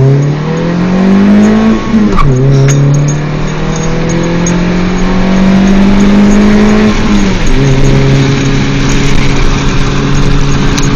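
2012 Fiat 500's four-cylinder engine breathing through a straight rear pipe in place of the muffler, accelerating through the gears. The pitch climbs, drops at an upshift about two seconds in, climbs again and drops at a second upshift near seven seconds, then settles to a steady cruise. It is heard from inside the cabin with the window down.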